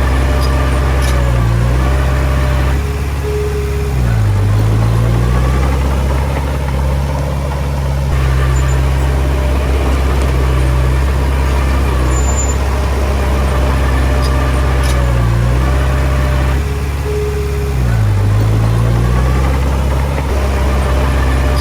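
Diesel engine of a Komatsu D20P bulldozer running steadily while pushing soil, its note dipping twice, about four seconds in and again near the end, then picking back up.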